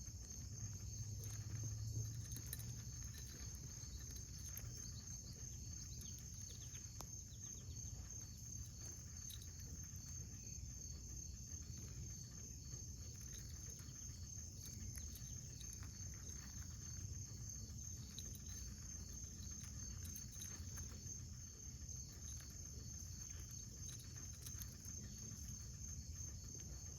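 Outdoor insect chorus, crickets chirring in a steady high-pitched trill, with scattered faint clicks.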